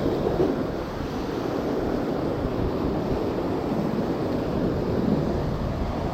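Ocean surf breaking and washing against the shore as a steady rushing noise, with wind buffeting the microphone.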